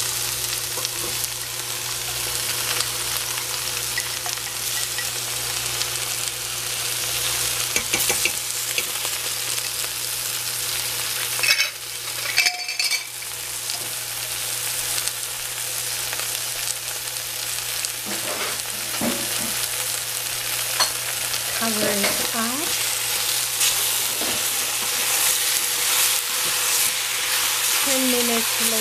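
Food sizzling steadily as it fries in oil in a pan, with a short clatter about twelve seconds in.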